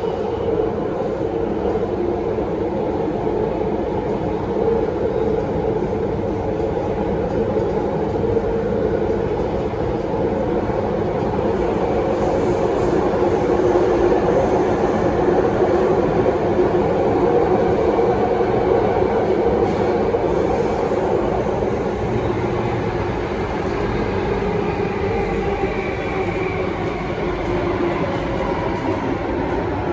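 Interior ride noise of an Alstom Metropolis C830C metro train running at speed through a tunnel: a steady rumble of wheels on rail that swells a little midway. A faint high wheel squeal comes in about two-thirds of the way through.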